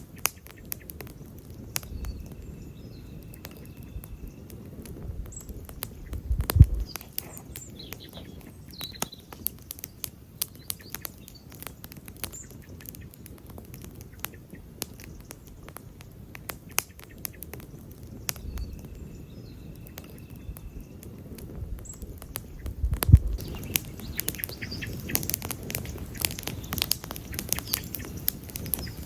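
Wood campfire crackling, with frequent irregular snaps and pops over the low rumble of the burning fire. Two pops stand out as much louder, one about a quarter of the way in and one about three quarters through.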